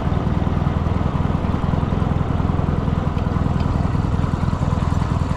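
Motorcycle engine running steadily at constant revs, its rapid firing pulses low and dense, with no revving up or down.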